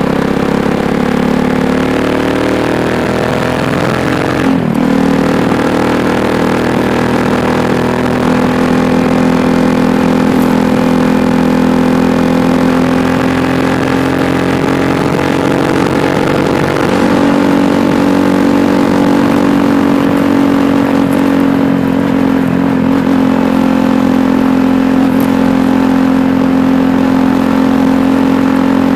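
KTM Duke 390's single-cylinder engine running under way at a fairly steady pitch. The pitch eases down over the first few seconds, breaks briefly about five seconds in, and steps up slightly a little past halfway.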